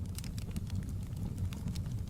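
Wood fire crackling: scattered sharp pops and snaps, several a second, over a steady low rumble.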